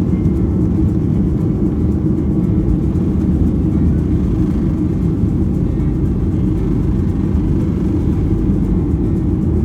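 Jet airliner taking off: a loud, steady low rumble of engines and airflow.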